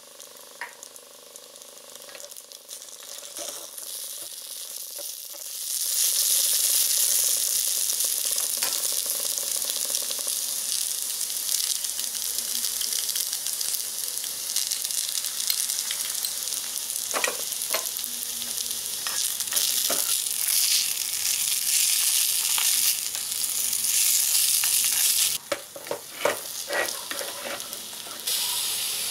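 Pasta and bacon sizzling in a miniature cast-iron skillet. The frying hiss swells up about six seconds in and stays loud, with light clicks and scrapes of stirring. The sizzle dips briefly near the end while a wooden spatula tosses the pasta.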